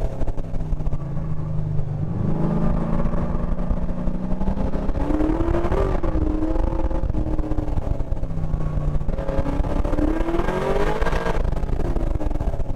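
LS7 V8 engine under load on track, heard onboard the car: its pitch steps up about two seconds in, then climbs hard about five seconds in and again from about nine seconds in, dropping back off after each climb.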